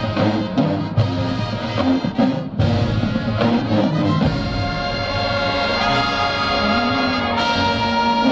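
Marching band brass playing a tune, with trombones and trumpets; from about five seconds in the horns hold long, steady notes.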